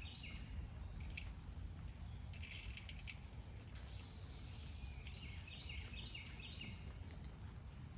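Birds chirping in short high calls, with a quick run of repeated stepped-down notes around three quarters of the way in, over a steady low background rumble.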